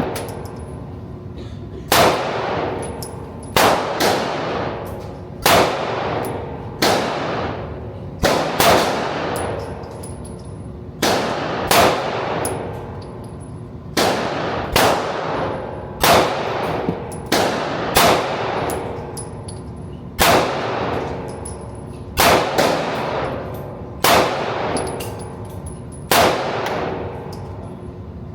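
Gunshots at a shooting range, fired one at a time at about one a second, a little unevenly. Each shot is sharp and rings off in a clanging echo.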